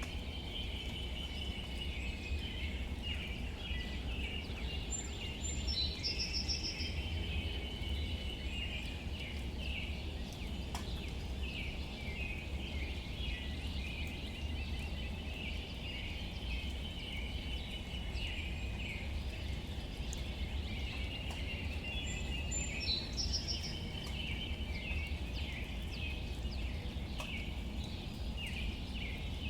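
Light rain falling on leaves, heard as a steady hiss with faint scattered drop ticks, over a continuous high chorus of small bird and insect calls. A short, higher bird call stands out twice, about 6 s and again about 23 s in.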